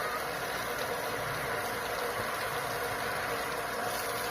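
Bolzano 1 hp shallow well pump running with a steady, unbroken hum.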